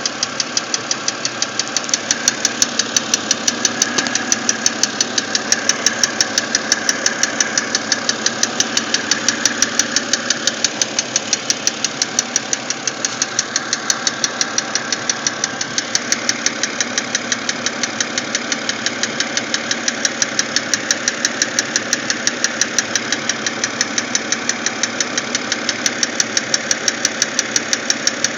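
BMW X3 engine running steadily with a rapid, regular ticking or knocking, about four or five ticks a second, over the engine sound.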